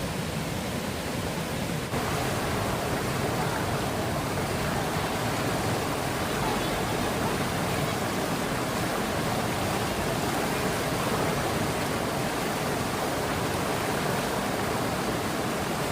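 Steady heavy rain, an even hiss of noise that gets louder about two seconds in.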